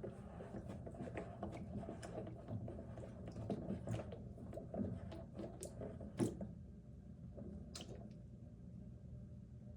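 Wet plastic water-filter housing being handled and twisted, giving small squishing, crackling and clicking noises, with a sharp knock about six seconds in; after that it goes quieter, with a few isolated clicks over a steady low hum.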